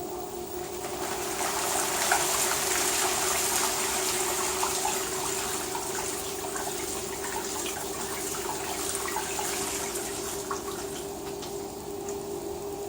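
LG WT-R852 direct-drive washing machine with water rushing through it over a steady hum. The rush swells about a second in and eases off near the end.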